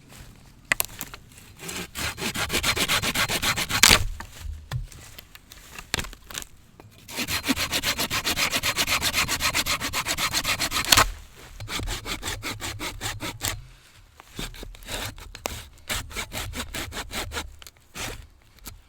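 Hand saw cutting through wood in fast, regular back-and-forth strokes, in two long runs. Near the end come slower, separate strokes.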